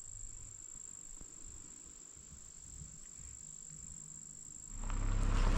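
Steady high-pitched insect drone, one thin unchanging tone. About a second before the end a much louder rumbling noise rises quickly and carries on.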